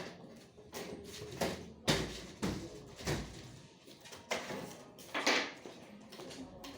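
Handling noises: a series of sharp knocks and scrapes, about half a second to a second apart, loudest about two seconds in and again about five seconds in.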